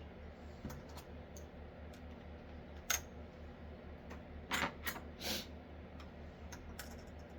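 A few sharp clicks and light taps of small hard objects being handled, the loudest a little under three seconds in and several more close together between about four and a half and five and a half seconds, over a steady low hum.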